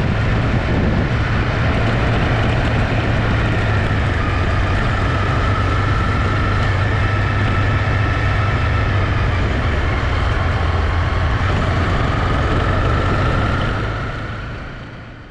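Honda CB250R's single-cylinder engine running at a steady cruise while riding. The sound fades out over the last couple of seconds.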